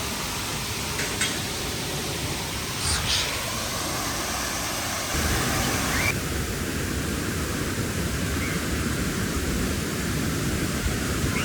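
Steady rushing noise, with brief high chirps twice in the first few seconds and an abrupt change in the noise about five and six seconds in.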